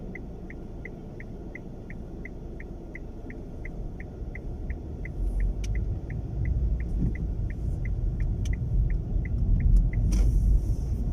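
Strong wind buffeting a moving car, heard from inside the cabin as a low rumble that builds over the second half, with a loud gust near the end. A regular high click, about three a second, runs alongside and stops shortly before the gust.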